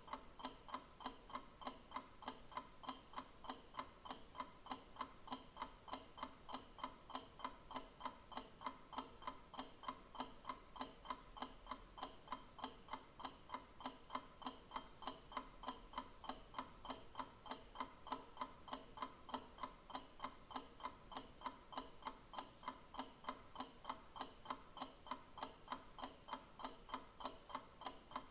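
Mechanical clock ticking in a steady, even rhythm.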